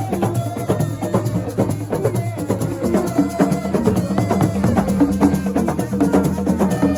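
Live percussion-driven music from an assiko ensemble: fast, dense drumming with a wood-block clack and shakers keeping a steady rhythm, and held melodic notes over it that grow fuller about three seconds in.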